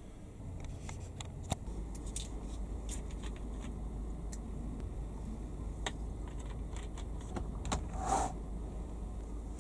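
Scattered light clicks and rattles over a low steady hum that sets in about a second and a half in, with a short rustling scrape near the end.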